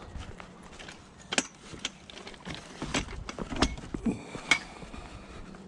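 Pieces of scrap metal being picked up and handled: a series of sharp metallic clanks and knocks, about six, one near the end ringing briefly.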